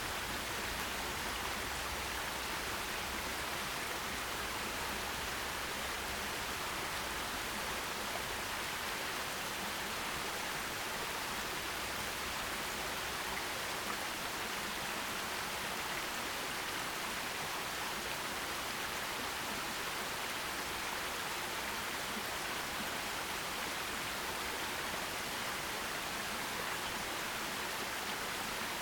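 Forest stream running over rocks: a steady, even rush of water with no breaks.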